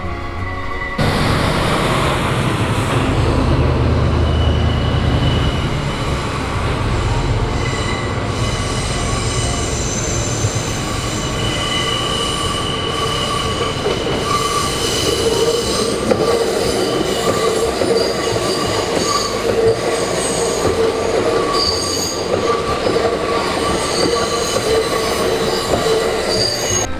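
Kintetsu limited express train running past on a curve, steel wheels squealing against the rail with long steady high tones over the running rumble. The level-crossing bell rings through it.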